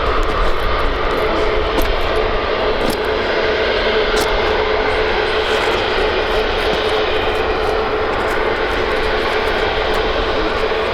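Jet airliner engines running, a steady loud rush with a constant hum through it, easing off slightly.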